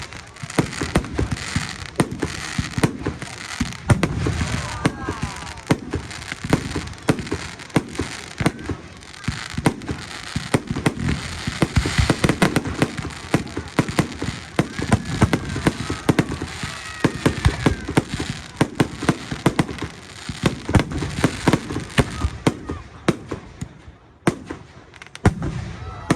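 Fireworks display: a dense, continuous barrage of bangs and crackling, easing off near the end.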